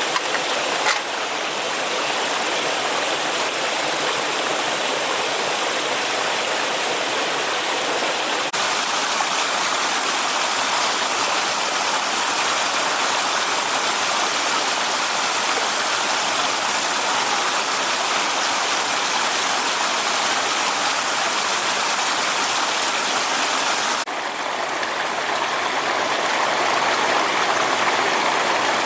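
Steady rushing water, like a fast-flowing stream. The sound changes abruptly about eight seconds in and again near the end.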